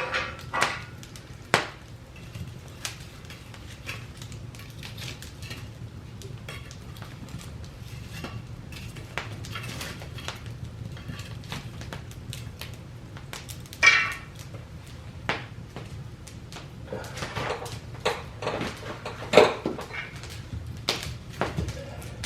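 Scattered clinks and knocks of objects being handled, with the loudest knocks near the start, about 14 s in and about 19 s in, over a low steady hum.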